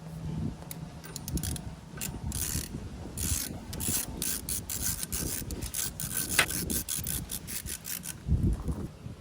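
Hand tools working on a Suzuki Burgman 650's exhaust fastenings: runs of quick ratchet-like clicks with metal scraping and rubbing, busiest in the middle of the stretch.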